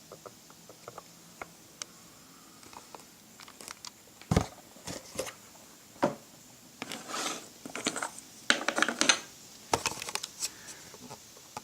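Hands handling a cardboard toy box: scattered light clicks and rustles, a sharp knock about four seconds in, and a denser run of scraping and crinkling from about seven to nine seconds.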